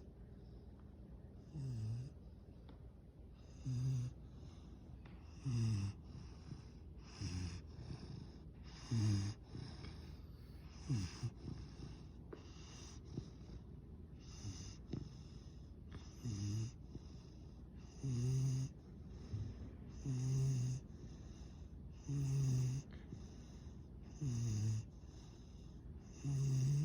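Yellow Labrador retriever puppy snoring in its sleep, loud snores repeating about once every two seconds, a few of them shorter and weaker.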